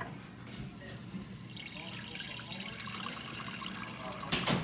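Water running from a refrigerator's door dispenser, building up about a second and a half in, as a newly installed water filter is flushed through.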